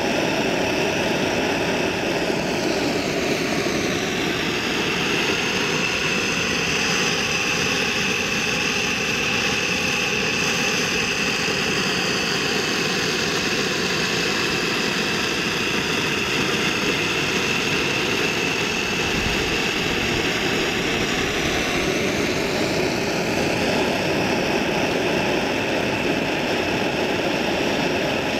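Steady whirring motor noise with a constant high whine, its tone sweeping slowly down and then back up as the source moves.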